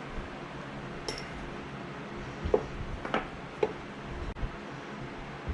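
A few short metallic clinks and knocks as a bench vise is worked to free a pipe tee, the vise handle clanking.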